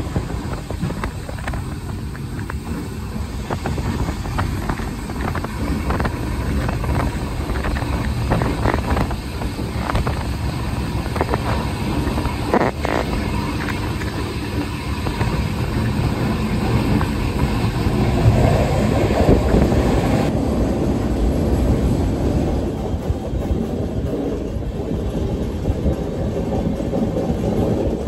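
Passenger train heard from on board while running: a steady rumble of wheels on the track, with a run of sharp clicks in the middle as the wheels pass over rail joints.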